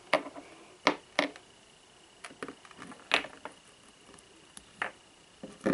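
Small ornaments and their packaging being handled, making scattered sharp clicks and taps about a second apart, with quiet pauses between them.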